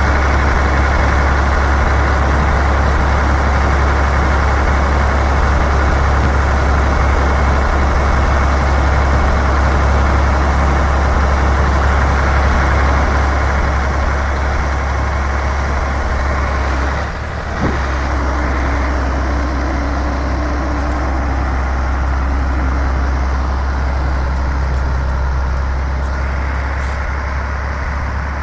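Iveco 380E42 6x6 truck's diesel engine running steadily with a strong low drone. The sound dips briefly about 17 seconds in and gives a short sharp sound before running steadily again.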